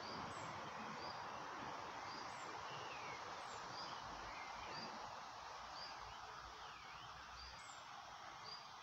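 Outdoor birdsong: a bird repeating a short high chirp about once a second, with other birds giving falling and dipping calls now and then, over a steady background hiss.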